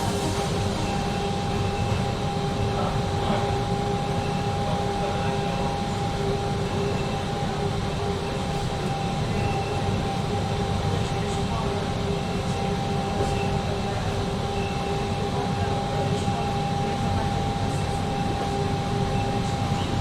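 Passenger train running, heard from inside the carriage: a steady rumble and hiss with a constant whine over it.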